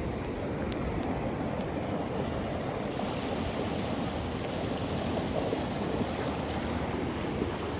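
Floodwater of a swollen creek rushing steadily under a small bridge, an even, unbroken wash of noise.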